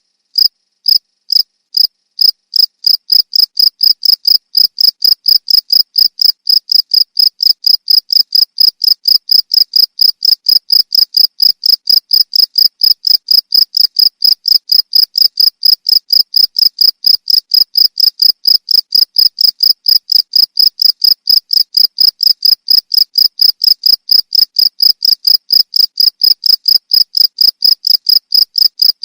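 Cricket chirping: a steady, high-pitched trill of short pulses repeated several times a second, a little more broken in the first couple of seconds.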